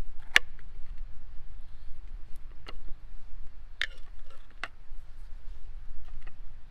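Campfire crackling: a few irregular sharp pops and snaps over a steady low rumble.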